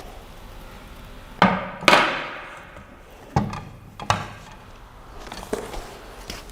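Hard knocks and clunks from 3D printer parts being handled and set down while unpacked. There are four sharp knocks; the loudest two come close together about a second and a half in, the second with a brief ring after it.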